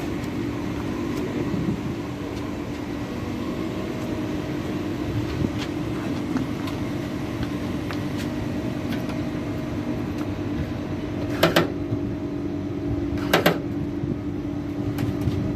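Steady machinery hum with a constant low tone. Two sharp metallic clatters about two seconds apart near the end, with a few fainter ticks, typical of tools or parts being handled on metal.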